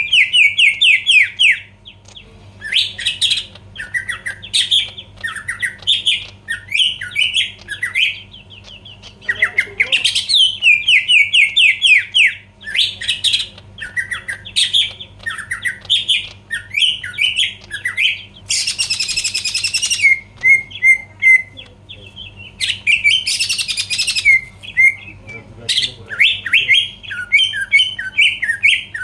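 Green leafbird (cucak ijo) singing in full song: fast runs of quick, rippling chirps, phrase after phrase, with two harsh, hissing calls in the second half.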